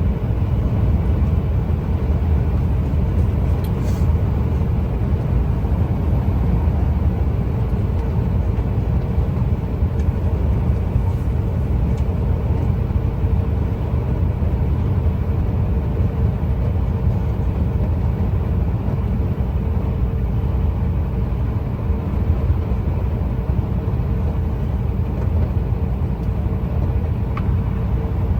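Steady low rumble of engine and road noise inside a Scania truck's cab driving at a constant speed, with a faint steady hum.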